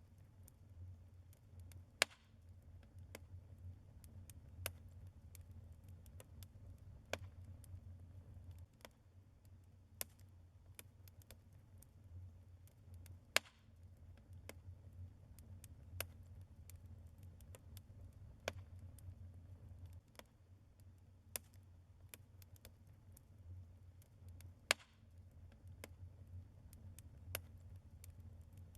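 Wood fire of burning logs crackling in a fireplace: irregular sharp pops and snaps every second or so, a few much louder than the rest, over a faint steady low rumble.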